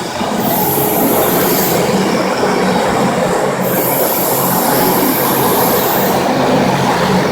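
FastPrep concrete floor grinder, driven by an electric motor, running steadily with its 16-grit diamond grinding plates cutting into a concrete floor. A steady hum sits under rough grinding noise, and a high hiss swells in twice.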